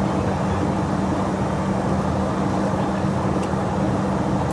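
Jet airliner in flight: a steady drone of engines and rushing air with a constant low hum, unchanging in level.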